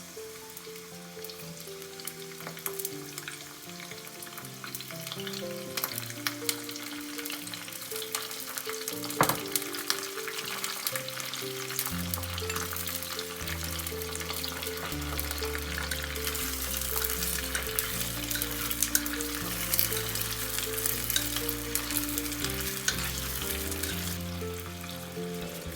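Oil sizzling and crackling in a ttukbaegi earthenware pot as garlic and shrimp fry for gambas al ajillo, the crackle growing busier after the first few seconds. Background music plays underneath, with a bass line coming in about halfway.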